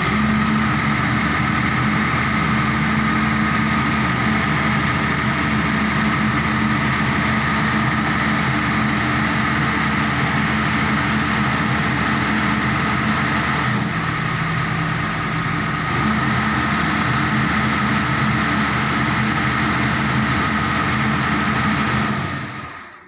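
Excavator engine running steadily at idle, then dying away near the end.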